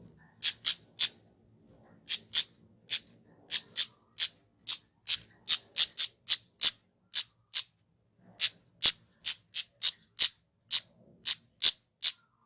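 Flowerpecker (kemade) giving a run of short, sharp, high-pitched call notes, about two to three a second, with a brief pause about eight seconds in.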